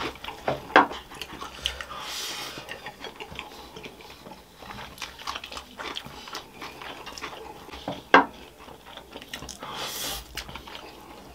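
Close-up eating sounds: crisp fried finger crisps (dhumro) being bitten and chewed, with sharp crunches scattered irregularly and a louder crunch about eight seconds in.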